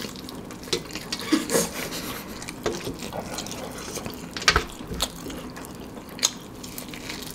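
Close-up wet chewing and lip-smacking of a person eating spicy fried chicken, with scattered short sharp clicks and smacks as the chicken is bitten and chewed.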